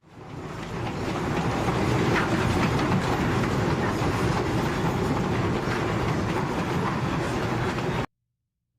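Narrow-gauge passenger train running along the track, with a steady rumble and rattle from the cars' wheels on the rails. The sound fades in at the start and cuts off abruptly about eight seconds in.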